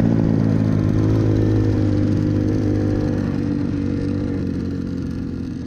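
200cc Avantis pit bike's single-cylinder engine running at steady mid revs, easing off slightly about a second in, and growing gradually quieter.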